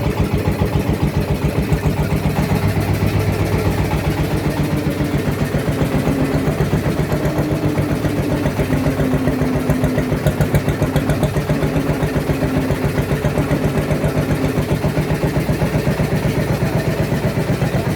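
Small boat engine running steadily, with an even, rapid chugging beat of about five pulses a second.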